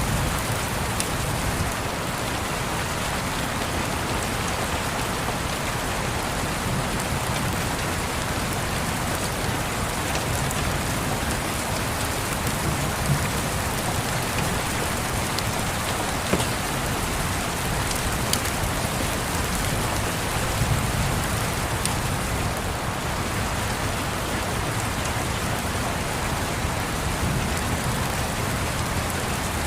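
Steady rain pattering, with a few brief sharp crackles from a fireplace and a low rumble underneath.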